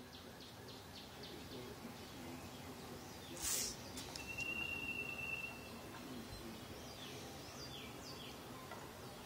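Wild songbirds singing outdoors: a quick run of repeated high notes, then a long steady whistled note a few seconds in, and a few falling notes near the end. A brief loud hiss comes about three and a half seconds in, over a steady low background murmur.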